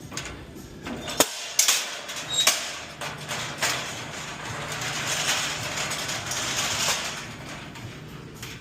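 Empty delivery returns being moved by hand: a sharp clack about a second in, a run of knocks and clatters, then a few seconds of steady rolling rattle that fades near the end.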